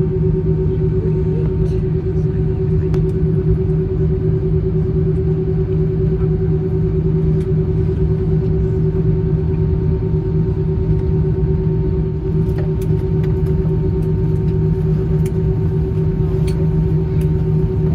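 Steady cabin drone inside an Airbus A320 after landing, its engines running at idle: a constant low hum with a steady higher tone over it.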